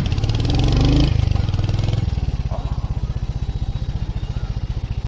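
Royal Enfield Hunter 350's single-cylinder engine opening up briefly over the first couple of seconds, then running steadily at low speed with an even, pulsing exhaust beat.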